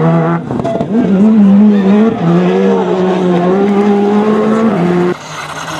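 Rally car engine at high revs under hard acceleration. The note climbs steadily and drops in pitch at an upshift about two seconds in, then cuts off abruptly about five seconds in.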